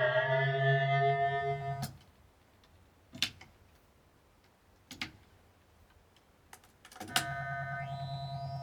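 Electronic music or sound-art tones. A held, layered tone over a low hum stops about two seconds in, and a few sharp clicks follow over a quiet stretch. About seven seconds in, a steady tone over a low hum comes back.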